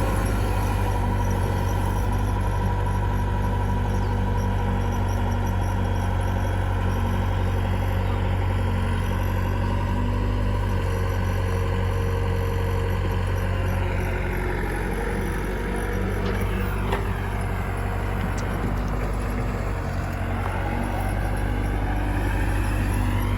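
Diesel engines of a backhoe loader and a tractor running steadily during soil loading. In the second half a higher engine note falls and then rises again, as an engine is worked harder and then eases.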